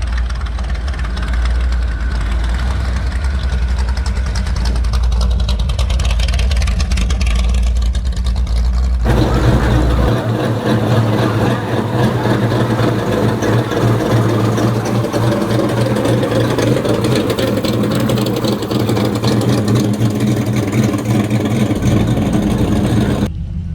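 Car engine running, with a heavy low rumble in the first part. The sound changes abruptly about nine seconds in to a fuller, steadier engine note, which cuts off suddenly near the end.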